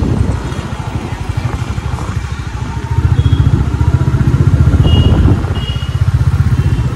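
Royal Enfield Classic 350's single-cylinder engine thumping as the motorcycle is ridden, getting louder about three seconds in and easing off again a little after five seconds.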